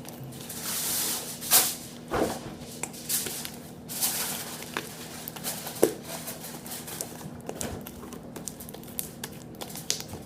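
Hands kneading and poking sticky slime, making irregular wet clicks and crackles with a few longer squelching hisses.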